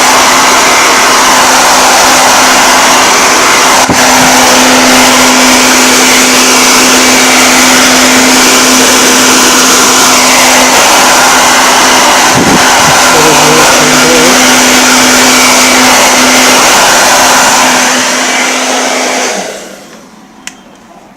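Electric air blower running loudly and steadily with a constant motor hum, blowing dust out of an opened television's chassis. It winds down and stops near the end, followed by a single click.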